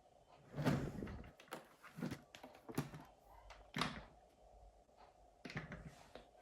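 A series of about six dull knocks and thuds spaced irregularly, the sound of hard objects being handled and set down.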